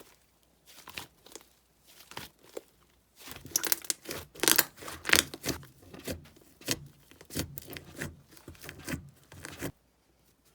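Cheese slime being stretched and squeezed by hand, making sticky crackling and tearing sounds: a few light crackles at first, then denser, louder crackling from about three seconds in, stopping shortly before the end.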